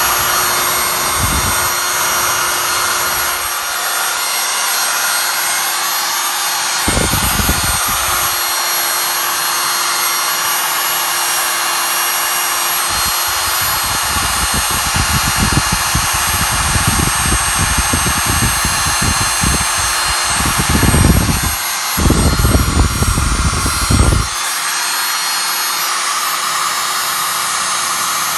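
Small electric blower running steadily, hissing air into the fireplace to fan smouldering embers back into flame, with a steady motor hum. Low rumbling gusts come and go, around a quarter of the way in and again through the later part.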